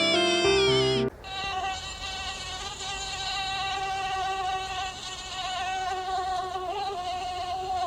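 Music with birdlike gliding tones that cuts off abruptly about a second in. It is followed by a steady high insect buzz, a wing whine that wavers slightly in pitch.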